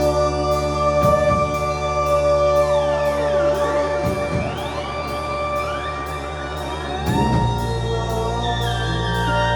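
Live progressive-rock band playing a slow instrumental passage: sustained organ and keyboard chords over a steady hi-hat tick about twice a second. Synthesizer tones glide down and back up in the middle, and a new low bass note comes in near the end.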